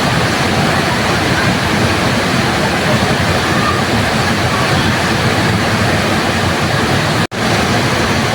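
Waterfall: a steady, dense rush of falling water, broken by a momentary gap of silence about seven seconds in.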